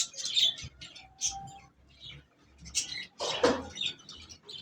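Caged parrots chirping in many short, high calls, with one louder rustling noise a little over three seconds in.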